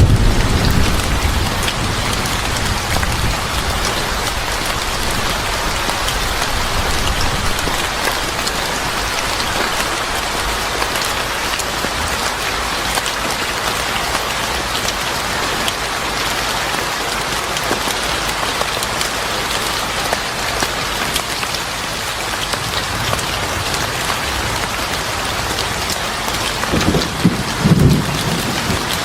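Steady heavy rain, with low rumbles of thunder in the first few seconds and again near the end.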